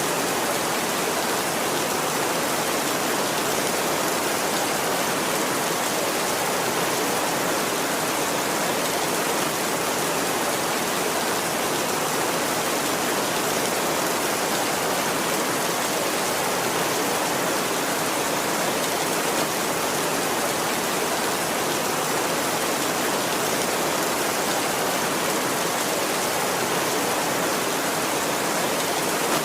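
Heavy rain falling, an even, steady hiss with no thunder.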